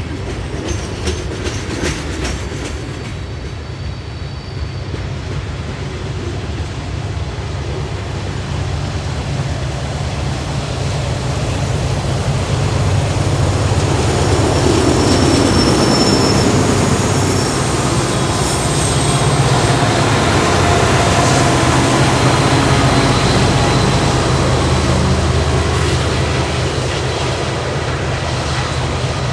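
Union Pacific manifest freight train rolling past: a steady low rumble of wheels on rail, with thin high wheel squeals in the middle. It grows louder about halfway through, then eases a little.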